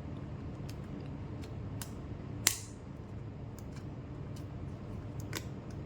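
Plastic back cover of a Jio Phone being eased off by hand: scattered small plastic clicks, with one sharp loud click about two and a half seconds in and a smaller one near the end.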